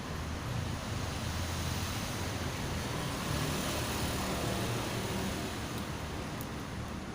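Steady vehicle noise: a low rumble under a broad hiss, like road traffic going by.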